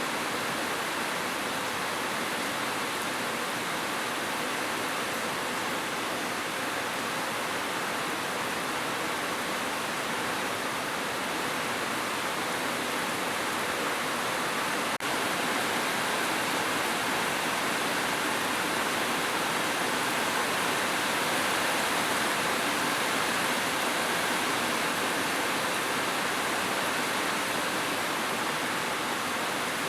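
Heavy rain falling steadily on a roof, an even hiss with no thunder, a little louder after about halfway.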